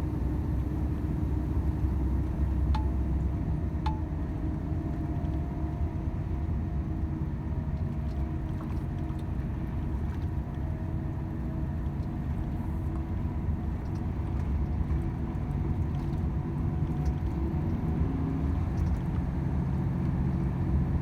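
Volvo FH 500 truck's six-cylinder diesel engine running at steady cruise, with a continuous low drone and road rumble and a few faint ticks. The engine note shifts slightly near the end.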